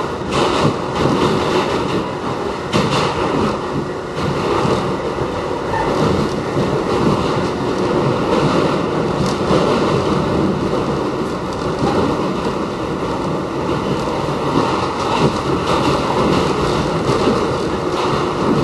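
Westinghouse R68 subway car running at speed, heard from on board: a steady rumble of wheels on rail with a few faint steady tones and occasional brief clicks.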